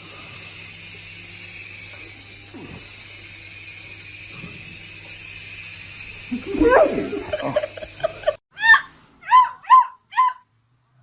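A dog's high-pitched yips: a louder burst of dog vocalising over a steady background hum, then, after a cut, four short, sharp yips in quick succession near the end.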